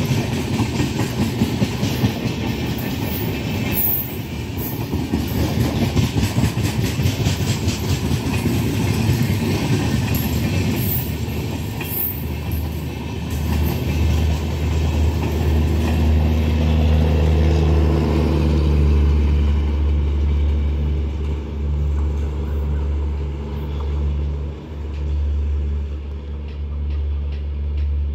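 Diesel-hauled Indian Railways express passenger coaches passing close at speed, the wheels clattering rhythmically over rail joints. About halfway through the clatter gives way to a steady low rumble.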